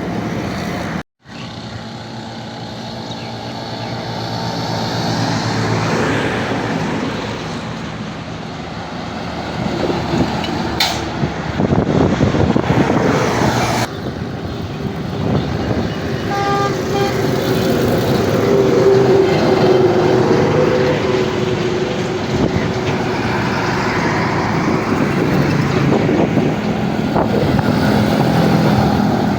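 Heavy road vehicles running, a steady engine drone mixed with road traffic noise. The sound drops out briefly about a second in and changes abruptly about fourteen seconds in.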